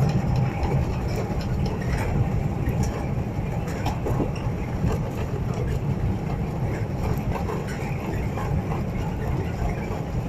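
Steady low rumble of an Airbus A380 heard from inside the cabin during its landing rollout on the runway, with scattered small clicks and rattles.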